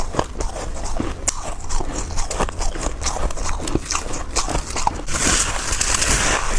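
Freezer frost chunks being bitten and chewed close to the microphone: rapid, crisp crunches and crackles, turning into a denser, hissier crunching about five seconds in.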